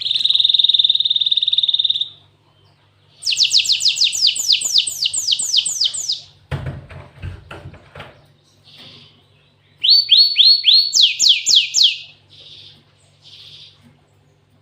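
Cinereous tit (gelatik batu) singing a song full of learned canary-style phrases. It opens with a buzzy two-second trill, then gives a fast run of descending whistled notes, about four a second. After a few low knocks, it sings a second run of sweeping notes, then a couple of short chips.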